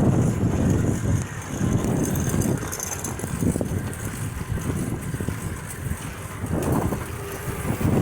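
Wind buffeting the microphone of a camera carried on a moving bicycle: an uneven low rumble that swells and eases every second or two.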